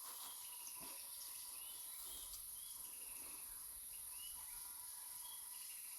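Steady high-pitched drone of insects, with short faint chirps repeating about once a second.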